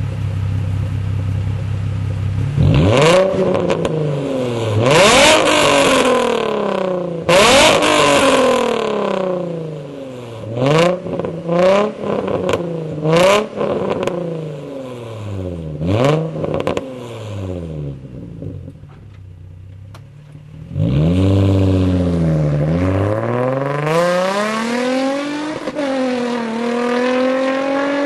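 Nissan 350Z's 3.5-litre V6 through a custom single-exit exhaust (Greddy Evo2 muffler welded to stock piping, with test pipes) being revved while parked. It idles, is blipped hard several times, then in a run of quicker blips, each time sweeping up and falling back to idle. Later it rises again and is held at raised revs.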